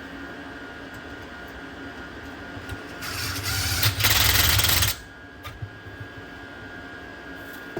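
A small electric motor whirring steadily with a thin whine. From about three seconds in, a loud rushing noise swells for roughly two seconds, then cuts off.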